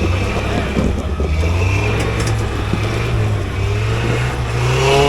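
Off-road vehicle engine running steadily, its low drone wavering a little in pitch.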